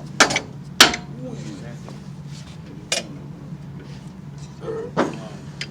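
Four sharp metal clinks and knocks of hand tools and engine parts being handled on an engine block, over a steady low hum, with faint voices in the background.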